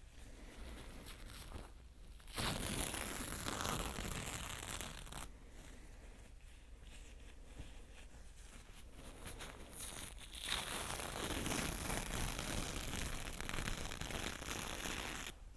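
Close-miked ASMR scratching and rubbing noise in two long stretches: one starts about two seconds in and lasts about three seconds, the other starts about ten seconds in and lasts about five. Softer scratchy sounds come between them.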